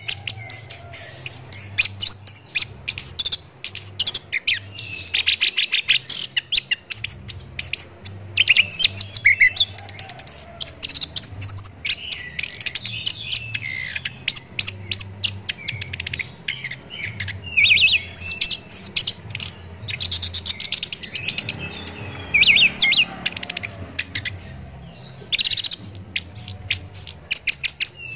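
Orange-headed thrush (anis kembang) singing a long, varied song of rapid trills, chattering notes and quick whistles, with a brief pause near the end.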